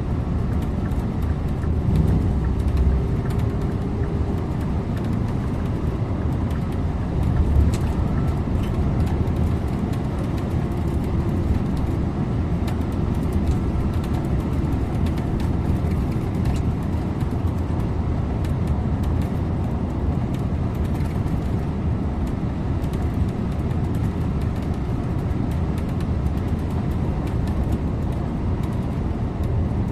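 Scania InterLink bus driving along a road: steady engine drone and tyre rumble, with a faint whine in the first few seconds and a couple of louder low bumps about two and seven and a half seconds in.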